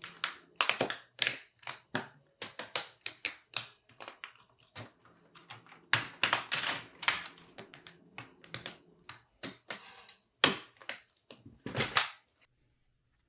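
Irregular sharp clicks and taps of small plastic building bricks being handled and pressed together, stopping about a second before the end.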